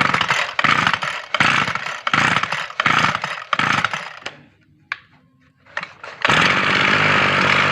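Kawasaki TG24 two-stroke brush cutter engine being pull-started: a string of rough bursts over the first four seconds, a short lull with a couple of clicks, then it catches about six seconds in and runs steadily. It is not yet running smoothly, and the seller points to a fuel tank that still needs flushing.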